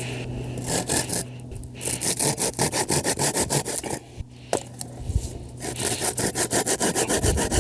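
Hand saw cutting through a piece of wood with quick back-and-forth strokes, about four to five a second, breaking off briefly about four seconds in before resuming.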